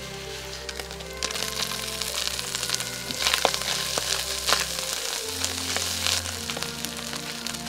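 Diced ham and garlic frying in a pan, sizzling with many sharp crackles. About a second in the sizzle turns louder and busier as mushrooms go into the hot pan. Background music plays throughout.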